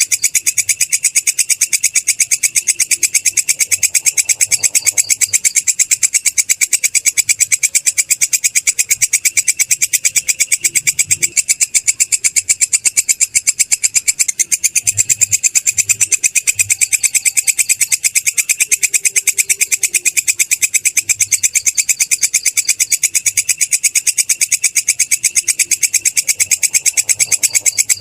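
Belalang kecek (kerik) katydid stridulating: a loud, high, rapid, evenly pulsed trill that keeps going without a break.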